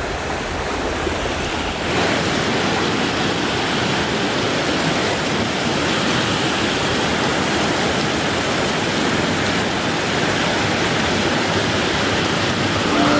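Creek water rushing over rocks, a steady hiss that grows louder about two seconds in and then holds.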